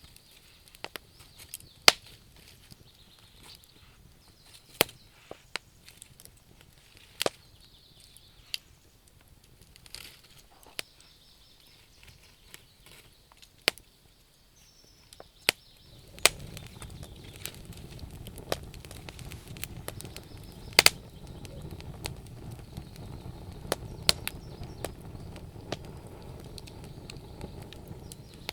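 Burning wood crackling, with sharp pops at irregular intervals. About halfway through, a steady low rush rises beneath the crackles and stays.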